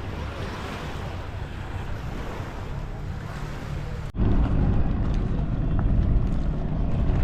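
Boat engine rumbling, with wind on the microphone and water noise. About four seconds in, it cuts abruptly to a louder, deeper engine rumble.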